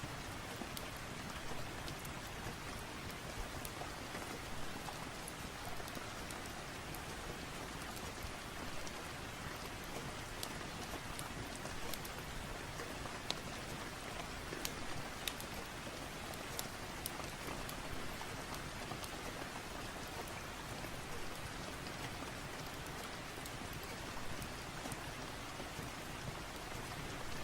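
Steady rain falling, an even hiss with scattered sharp little clicks of drops or crackles through it.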